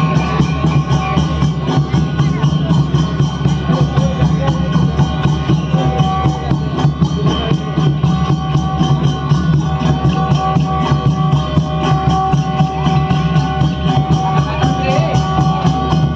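Folk instrumental music for Danda Nacha: fast, steady drumming with a held, high melody line over it.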